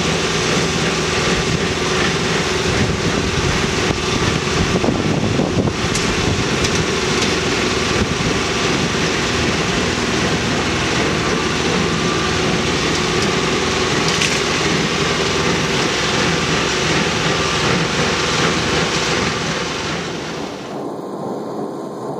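John Deere 5085E tractor's diesel engine working under load while pulling a John Deere 328 small square baler, a steady dense mechanical running noise from engine and baler together. It turns quieter and thinner near the end.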